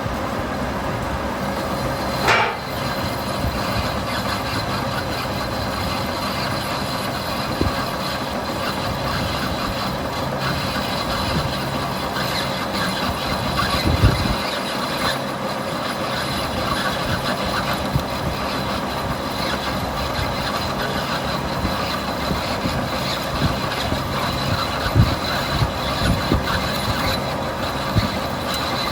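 A machine running steadily with a constant hum, broken by a few sharp knocks of metal work, about 2 s in, about 14 s in and near the end.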